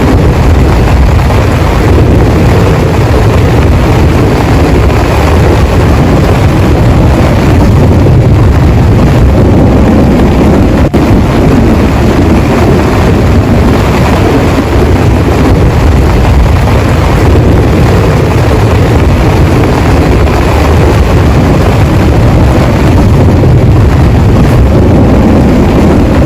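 Heavy rain pouring steadily, a loud dense rush strongest in the low end, with wind.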